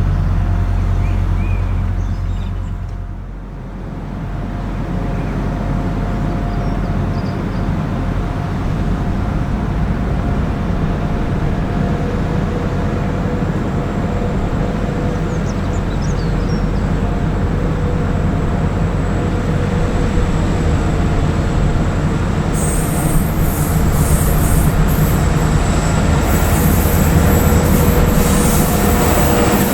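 Diesel train running through a station: a steady low rumble with a constant mechanical tone over it. A high-pitched screech joins in over the last several seconds.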